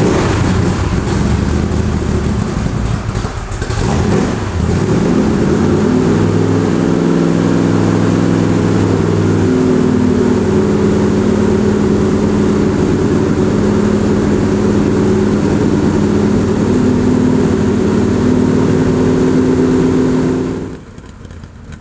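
The Ford 427 V8 of a 1966 AC Cobra running loud through side-pipe exhaust with Flowmaster PRO Series mufflers, under throttle. There is a brief dip about four seconds in. The engine note then climbs a little and holds a steady drone, until it drops away sharply near the end.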